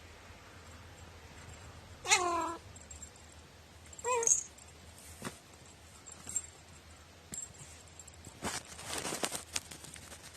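Domestic cat meowing twice: a short call with a falling pitch about two seconds in, and a shorter one two seconds later. A few light clicks and a stretch of rustling follow near the end.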